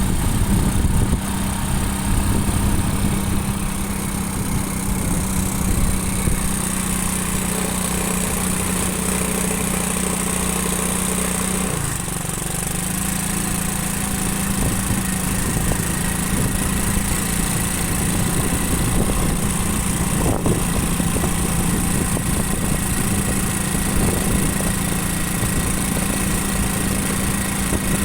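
Motorcycle engine running at a steady speed while riding, with road noise. The engine eases off briefly about twelve seconds in, then picks up again.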